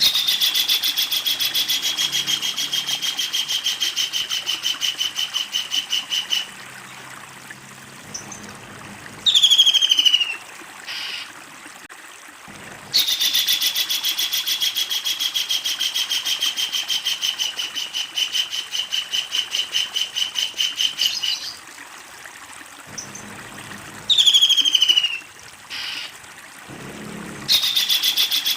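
Kingfisher calling: two long, rapid rattling series of sharp notes, each running for several seconds, with short down-slurred calls in the pauses between them and a third rattle starting near the end.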